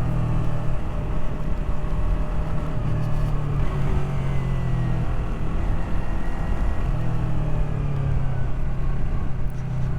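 Yamaha R3's parallel-twin engine running at a steady cruise while riding, with wind and road noise on the helmet-mounted camera. The engine note eases off for a moment around the middle, then comes back.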